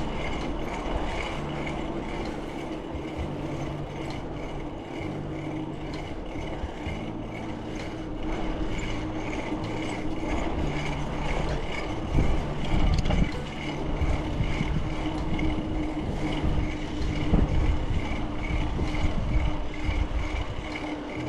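Riding noise from a bicycle-mounted camera: wind buffeting the microphone and tyre and road rumble, with a steady hum. The rumble surges louder twice in the second half.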